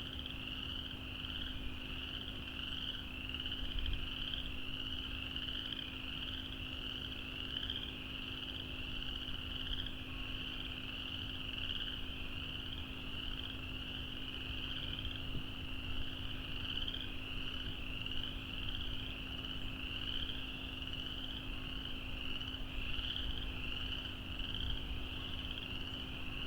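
Dense, unbroken chorus of frogs calling, high-pitched, over a steady low hum.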